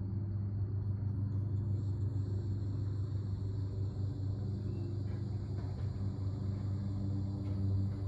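Steady low mechanical hum with a few evenly spaced tones, joined by faint steady high-pitched tones about a second and a half in.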